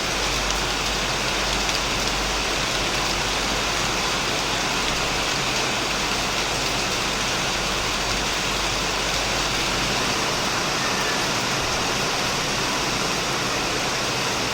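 Heavy rain falling steadily on a shed roof and surrounding plants, an even unbroken hiss with a low rumble underneath.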